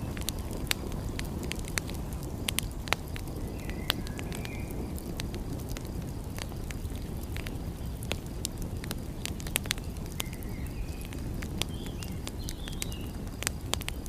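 Wood fire crackling, with irregular sharp pops over a steady low roar. A few faint, short high chirps come about four seconds in and again near the end.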